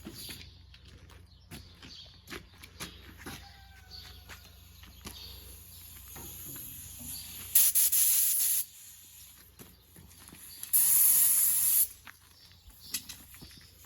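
Compressed-air paint spray gun firing two hissing bursts of about a second each, a few seconds apart, spraying paint onto a tractor fender, with light clicks and handling noise in between.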